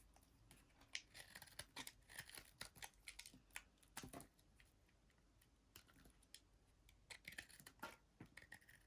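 Knife cutting through a bar of soap: faint, irregular crisp clicks and scraping crunches, with a quieter stretch in the middle.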